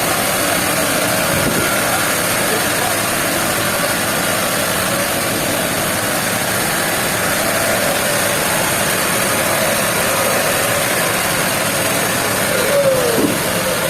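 Sawmill machinery running steadily. A short falling whine comes about a second before the end.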